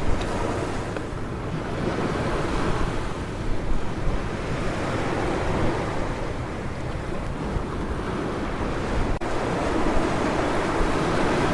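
Sea waves washing onto a beach: a continuous rushing surf that swells and eases, with wind buffeting the microphone.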